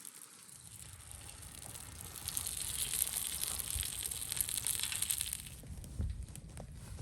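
Crackling hiss of food cooking over a campfire, swelling from about two seconds in and easing off again after about five and a half seconds.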